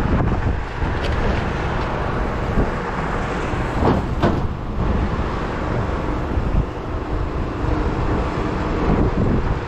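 A vehicle engine running steadily, a dense low rumble, with two short knocks about four seconds in.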